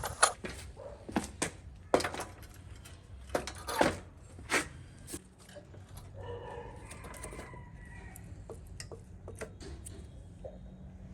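A series of sharp knocks and clicks in the first few seconds, then quieter scattered ticks and faint rustling.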